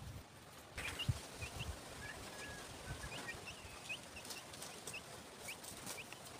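Small birds chirping outdoors in short, high, repeated calls, with a couple of dull thumps about a second in.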